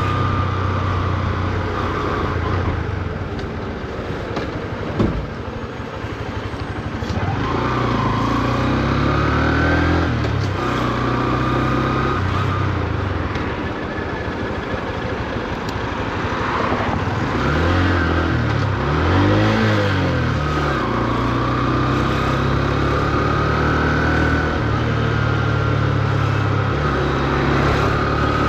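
Honda CB125F's 124 cc air-cooled single-cylinder four-stroke engine running on the road, pitch rising as it pulls and dropping back several times, held to low revs because the new engine is being run in. A single sharp knock about five seconds in.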